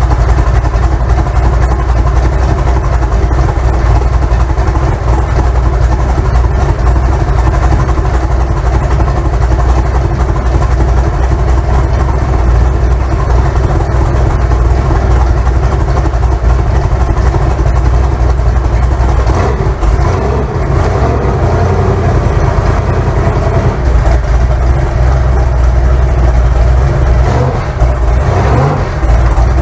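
Twin-turbo big-block Chevy V8 running loud and steady with a heavy low rumble. It changes briefly about two-thirds of the way through and gives a short rise in revs near the end.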